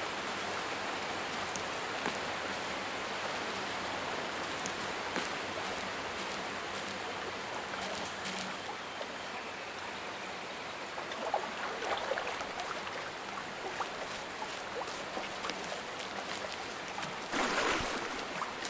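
Steady rushing of running water, with scattered small clicks and splashes in the second half and a brief louder rush near the end.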